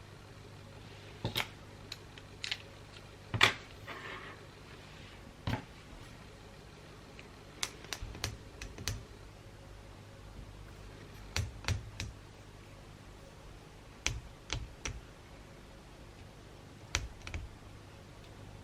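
Light taps and clicks, irregularly spaced and some in quick pairs, from items being handled and set down on a table while gifts are wrapped, over a faint low hum.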